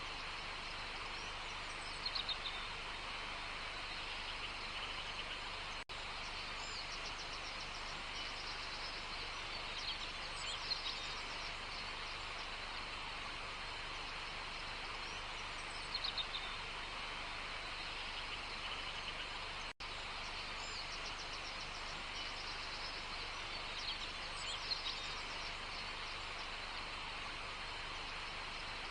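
Birds calling in short chirping phrases that recur every six to eight seconds over a steady outdoor hiss of natural background sound.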